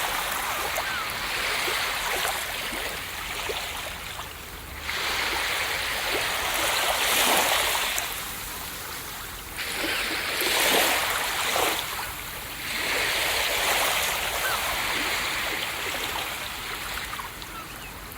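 Ocean waves breaking on a beach. The surf hiss swells and falls back in repeated surges a few seconds apart.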